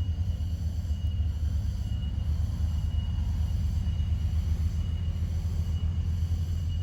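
A steady low rumble with a faint high-pitched chirp repeating about once a second, typical of a cricket calling.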